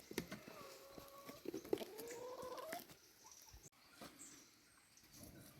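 An animal's call: a held note for about a second, then a longer note that rises in pitch, amid small scattered clicks and knocks.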